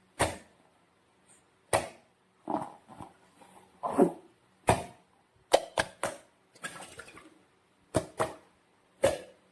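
Slime and rubber balloons being handled and squeezed: about a dozen separate wet squelches and sharp snaps with short pauses between them.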